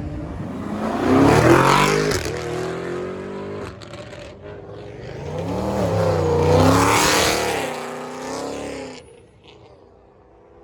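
Car engines revving as cars accelerate past, in two loud swells about a second and a half in and again about seven seconds in, fading away near the end.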